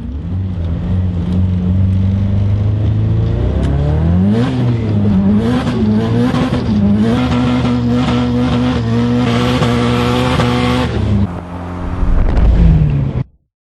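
A car engine running hard: it revs up about four seconds in and is held at high revs for several seconds, then drops back, before the sound cuts off suddenly near the end.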